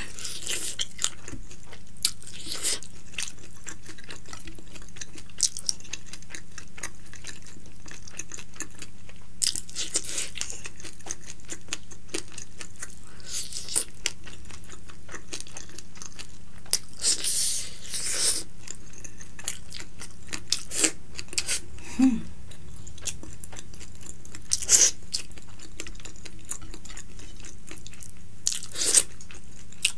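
Close-miked chewing and crunching of fried fish and rice, with short wet mouth noises and louder crackly bursts every few seconds. A faint steady low hum runs underneath.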